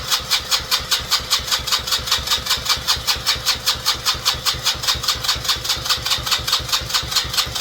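Small engine being cranked over by its electric starter, an even chugging at about five pulses a second, without catching: the engine has no spark.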